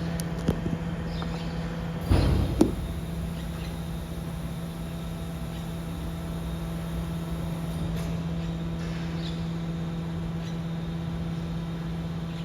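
BYD battery-electric garbage truck's rear compactor running with a steady hydraulic-pump hum. A short burst of crunching ends in a sharp clank about two seconds in.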